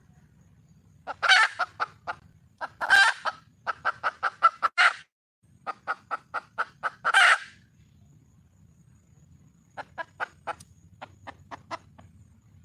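Red junglefowl hen calling to attract a male: bouts of short, quick clucks, broken by a few longer, louder, harsher calls. Near the end there is a softer run of clucks.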